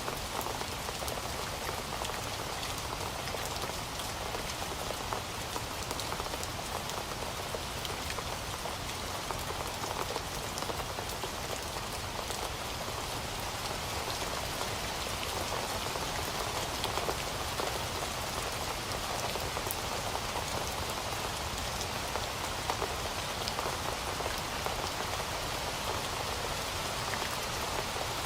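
Heavy rain falling steadily, a dense even hiss of drops on a surface with many fine individual drop ticks.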